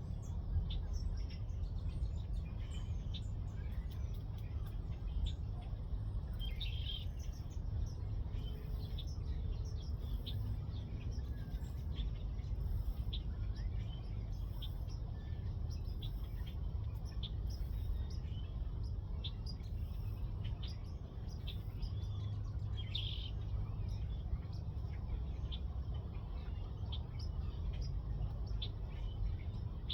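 Small birds chirping, with many short high calls scattered throughout and two louder calls, about seven seconds in and again near the end, over a steady low rumble.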